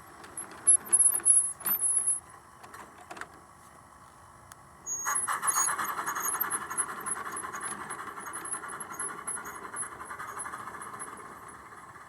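G scale model train on garden track: a few sharp, high-pitched squeals in the first couple of seconds. About five seconds in, it starts rolling with a steady running noise and a high squeal over it, which slowly fades away.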